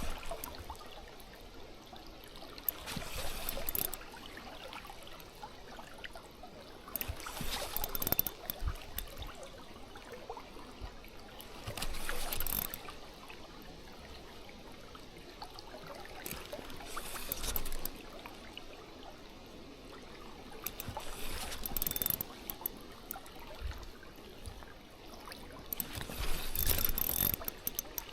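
Shallow river water running steadily, with a surge of rushing noise about every four to five seconds.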